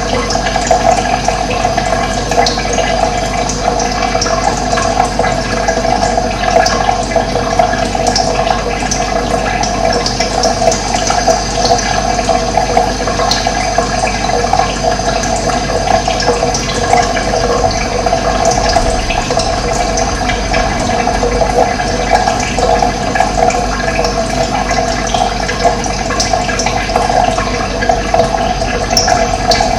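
Steady running water, with short bird chirps scattered over it.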